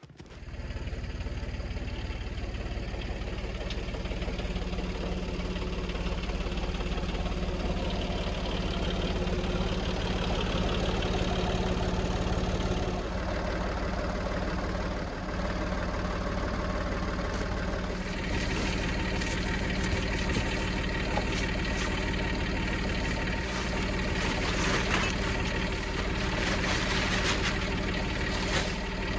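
An engine running steadily at idle, its tone shifting a little partway through.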